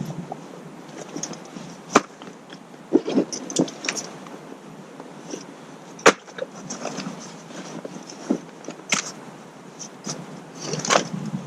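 Camping kit being unpacked and handled: short bursts of rustling with scattered sharp clicks and knocks, the sharpest about two and six seconds in.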